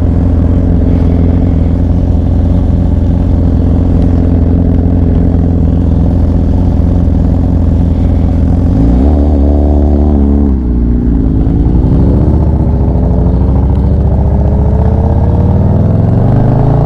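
Motorcycle engine running at a steady cruise, then easing off about nine seconds in and pulling up again with a long rise in engine pitch as it accelerates.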